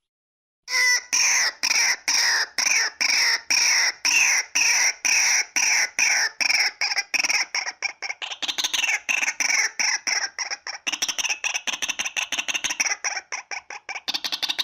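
Female white-breasted waterhen giving a long run of short, repeated harsh calls, about three a second, quickening to about six a second from around halfway through.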